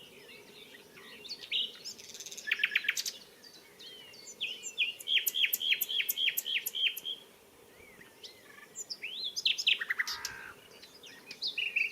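Common nightingale singing in separate phrases with brief pauses between them, one phrase a fast rattling run of repeated notes and another a string of about a dozen loud repeated notes, each sliding downward.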